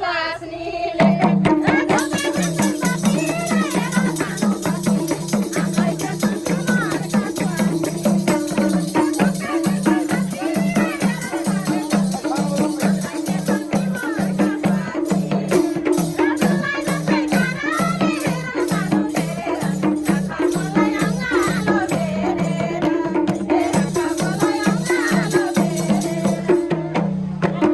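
Instrumental break of live Nepali dohori folk music: a fast drum rhythm under steady low held tones, with a wavering melody line above; it starts about a second in and stops just before the end.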